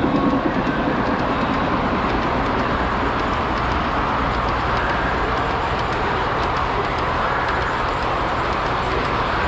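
Model trains running on a display layout, a steady rolling rail sound, mixed with the continuous background noise of a busy exhibition hall.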